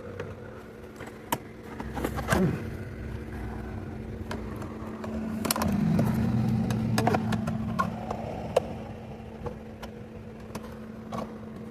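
A motor vehicle running nearby, a steady engine hum that grows louder about five seconds in and fades again by about eight seconds, with scattered sharp knocks and clicks.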